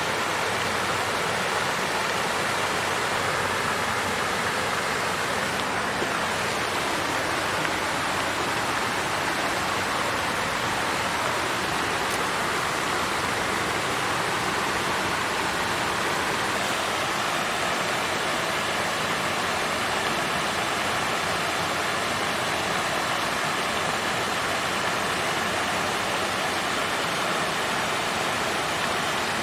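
Water fountain flowing steadily: an even splashing rush of falling water, strongest in the mid to upper range, with no breaks or changes.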